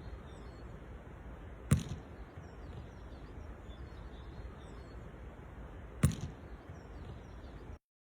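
A football thuds twice against a foot or the ground as it is controlled, about four seconds apart, over low outdoor background noise with faint bird chirps. The sound cuts off abruptly near the end.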